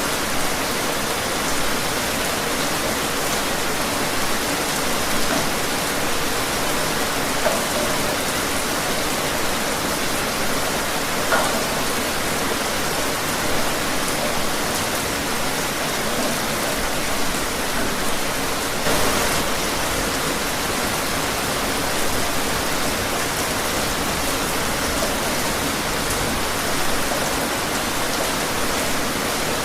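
Steady rain falling outdoors, an even hiss with scattered drop ticks.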